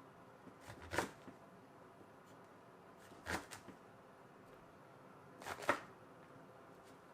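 Three brief handling noises, like something being moved or rustled, about two seconds apart.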